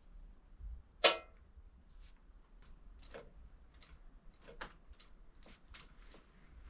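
Motorcycle control cable and its lever being worked by hand after greasing: a sharp click about a second in, then scattered lighter clicks and taps.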